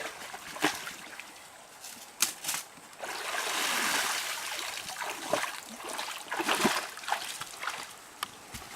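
Water splashing and trickling, with a few sharp knocks; a longer stretch of splashing from about three seconds in.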